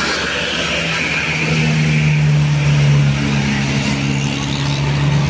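Diesel engine of a heavy road vehicle pulling up a steep climb, a steady low hum that grows a little louder midway.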